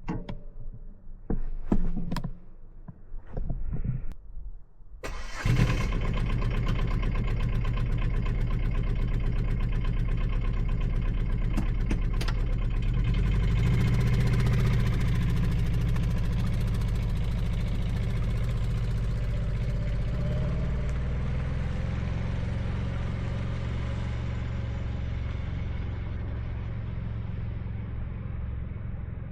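A few clicks and knocks, then about five seconds in the Aixam D-Truck's small diesel engine starts and settles into steady running, growing gradually quieter toward the end.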